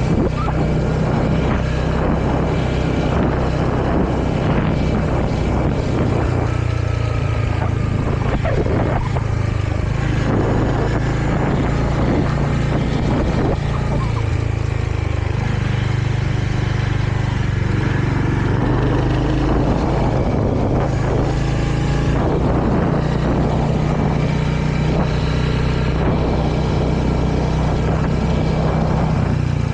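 Royal Enfield Hunter 350's single-cylinder engine running under way, heard from the rider's position, its pitch stepping up and down several times as engine speed changes.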